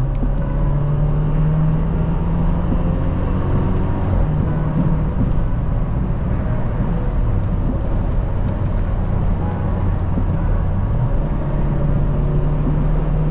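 A BMW 335i's turbocharged straight-six, fitted with an aftermarket downpipe and M Sport muffler, running steadily while driving. Its drone drops in pitch about four seconds in and climbs again near the end.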